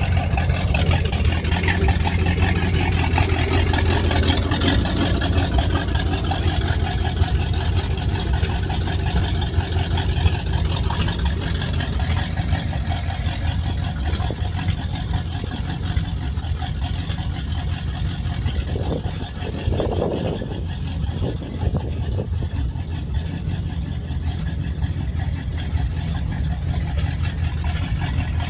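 Volvo Penta 5.7 V8 sterndrive engine running steadily at idle through its Corsa Captain's Call exhaust, with a deep, even exhaust note. A brief mid-pitched sound rises over it about twenty seconds in.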